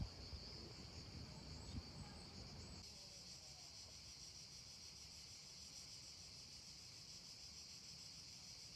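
Near silence with a faint, steady, high insect drone, and a faint low rumble that stops about three seconds in.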